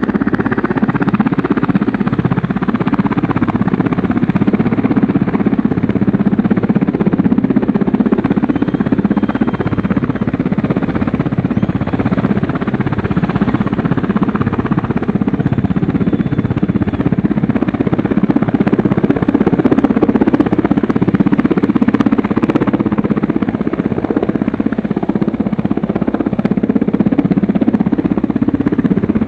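An engine running steadily, with no change in pace.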